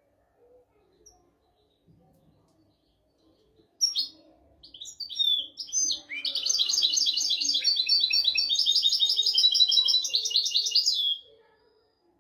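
European goldfinch singing: a few short, scattered high notes about four seconds in, then a fast, unbroken twittering run of notes lasting about five seconds that stops abruptly about a second before the end.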